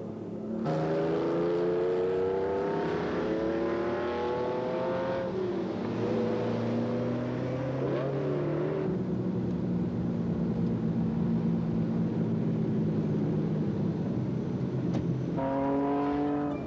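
Lamborghini Countach's V12 engine accelerating hard, its pitch rising steadily for several seconds, then running at a steady pitch for several seconds before rising again near the end.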